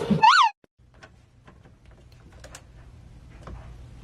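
A cat's single short, high meow that rises and falls, then a cut to faint scattered light clicks and ticks.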